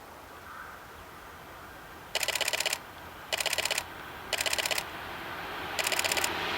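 Camera shutter firing in four rapid continuous-shooting bursts, each about half a second of fast clicks. An approaching train's rumble rises under them near the end.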